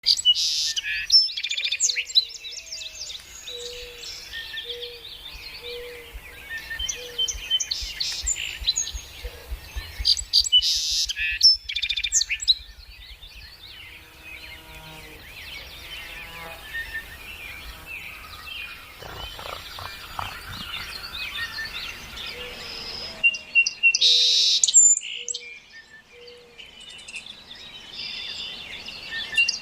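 A chorus of several birds chirping and singing, with quick high trills and calls overlapping throughout. A low hooting note is repeated five or six times in two separate runs.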